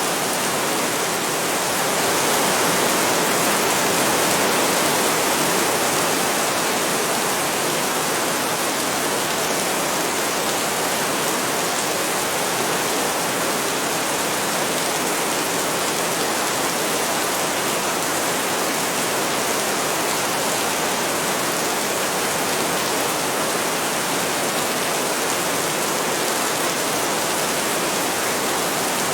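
Heavy rain falling steadily, a dense, even hiss with no breaks, swelling slightly a few seconds in.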